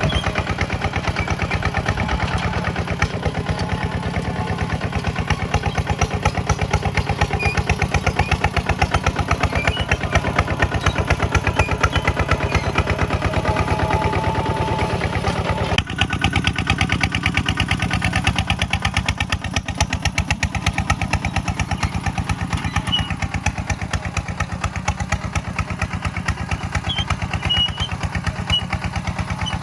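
Single-cylinder diesel engine of a Kubota walk-behind tractor running steadily, its firing pulses coming thick and regular. The tone changes abruptly about halfway through.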